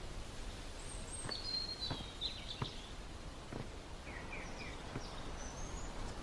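Quiet outdoor ambience with a few faint, short bird chirps scattered through it and several soft taps.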